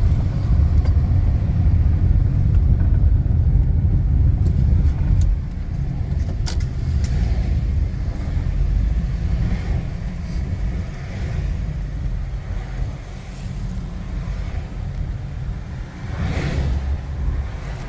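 Steady low rumble of a moving road vehicle, easing a little about five seconds in, with a couple of sharp clicks and a brief swell near the end as something passes.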